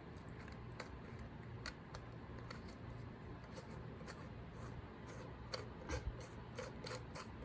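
Faint scattered clicks and rubbing of small metal spray-gun parts being handled and threaded together by hand, over a low steady hum.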